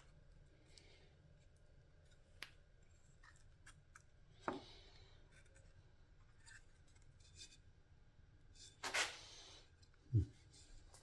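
Faint workbench handling noises: scattered light clicks, two brief rasping strokes, and a low thump near the end.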